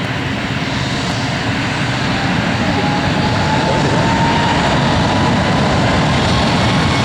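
Airliner engines running close by: a steady, loud rush that grows a little louder, with a thin whine slowly rising in pitch.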